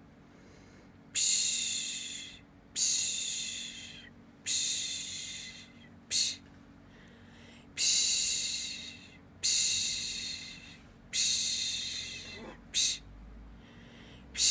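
A person shushing a baby to sleep with a repeated 'psh' sound: long shushes, each fading out, come about every second and a half, with a short quick one now and then. A faint steady low hum runs underneath.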